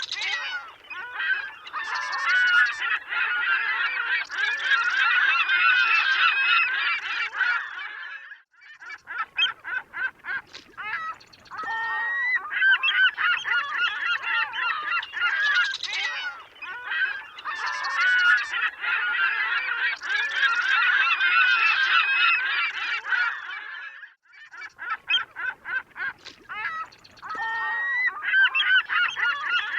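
A flock of seagulls calling over one another in a dense chorus of overlapping squawks and cries. The calling thins out briefly twice, about a quarter and about three quarters of the way through.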